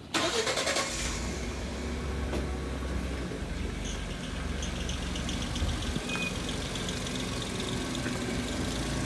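Lexus IS 350's 3.5-litre V6 starting up, catching within about a second, then settling into a steady low idle.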